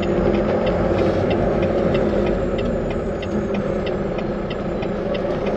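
Cab of a 2020 Volvo VNL 860 semi truck: the engine runs steadily while a turn signal ticks evenly, about three clicks a second.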